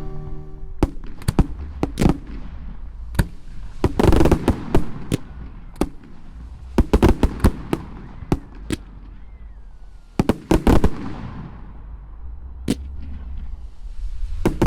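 Aerial fireworks going off: a string of sharp bangs and crackles with echoing tails, coming in bunches, with a heavy volley near the end. Music stops just under a second in.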